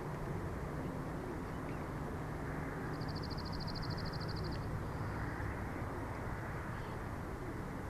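Steady wind rushing and rumbling over an outdoor nest-camera microphone. About three seconds in, a small songbird gives one rapid high trill lasting under two seconds.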